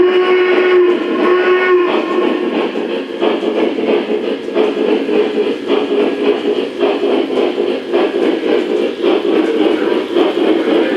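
Lionel O-gauge Virginian 2-8-8-2 model steam locomotive sounding its steam whistle through its onboard sound system: two blasts, the second a little shorter. It then runs on with steady mechanical running noise and light clicking on the track.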